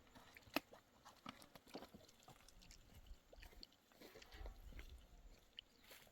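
Faint, scattered light clicks and taps, with one sharper click about half a second in, against a quiet background.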